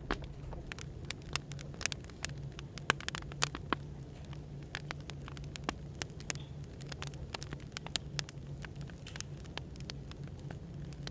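Wood fire crackling, with irregular sharp pops and snaps over a steady low hum of white noise.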